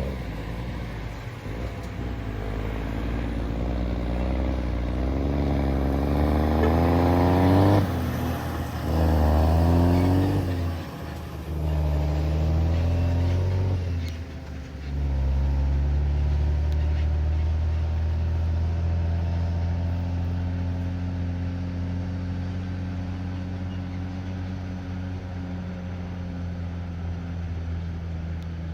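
Heavy diesel vehicle engine pulling away. Its revs rise and break off three times in the first half, as with gear changes, and then it runs at a steady speed, slowly getting quieter toward the end.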